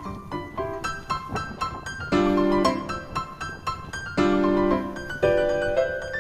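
Background piano music: a run of quick notes over chords struck about every two seconds.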